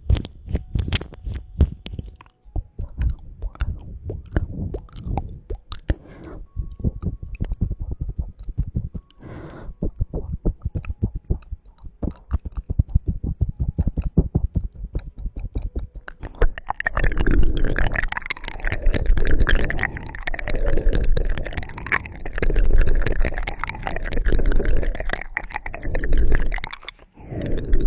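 Close-miked ASMR mouth sounds: a long run of quick, wet tongue and mouth clicks. About two-thirds of the way through these give way to continuous loud rubbing and scratching right on the microphone.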